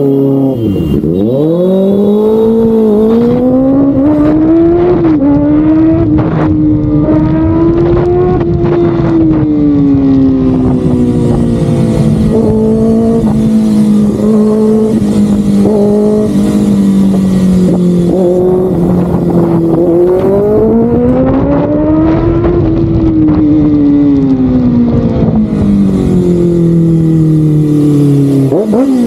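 Kawasaki ZX-6R inline-four engine under way at high revs, its pitch climbing just after the start, holding high, swelling once more in the second half and sinking over the last few seconds, with a steady rush of wind noise.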